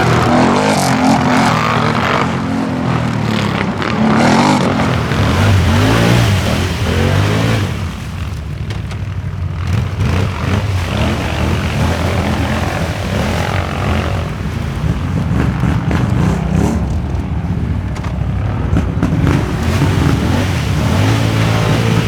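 4x4 ATV engines revving hard, their pitch rising and falling as the throttle is worked. It is loudest in the first several seconds, eases a little, then builds again toward the end.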